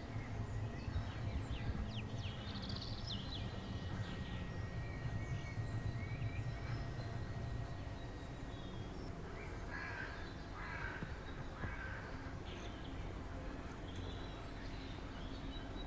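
Birds calling outdoors: a few high chirps early on, then three harsh, caw-like calls about ten seconds in, over a steady low background rumble.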